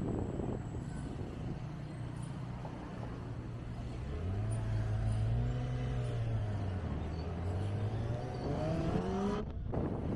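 Kawasaki Ninja ZX-25R's inline-four engine running under way, with wind noise over it. The engine pitch rises about four seconds in, eases back, then climbs again before the sound cuts out briefly near the end.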